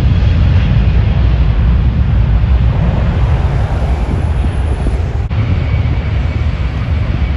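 Jet airliner passing close by, its engines a loud, steady low rumble.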